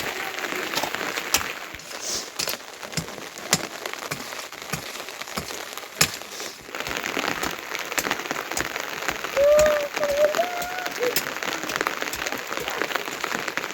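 Heavy rain falling steadily, with many sharp drip clicks scattered through it. About nine seconds in, a brief wavering call rises above the rain and is the loudest sound.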